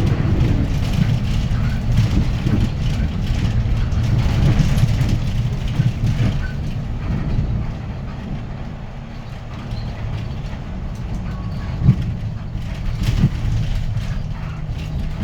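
Hyundai Green City city bus with a D6GB diesel engine, heard from inside the cabin while driving: a steady engine and road rumble. It eases off for a few seconds in the middle, then picks up again. There is a single sharp knock about twelve seconds in.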